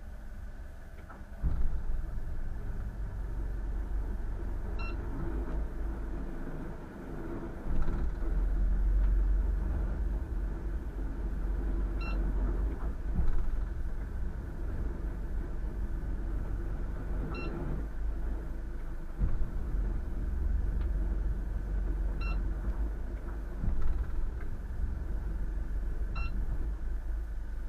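An engine running with a steady low rumble that swells in loudness now and then. A short, high beep sounds about every four to five seconds.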